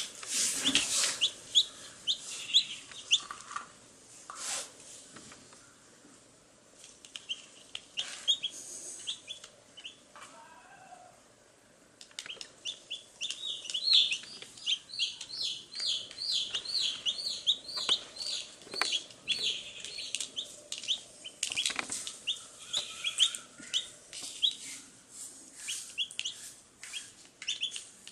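Baby chicks peeping: many short, high chirps in quick runs, busiest in the middle stretch, with a few scattered sharp clicks among them.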